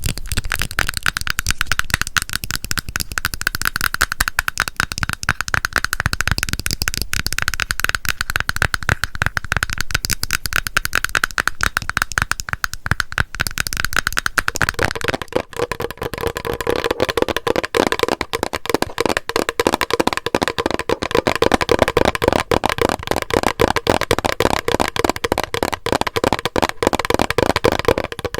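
Rapid, continuous tapping on a cream container, then about halfway through a switch to tapping on a plastic bottle, whose taps ring with a lower, hollow tone.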